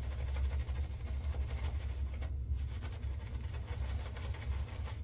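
Three-piece safety razor scraping lather and stubble off the face in strokes, a crackly scratching with a short pause about two seconds in, over a steady low hum.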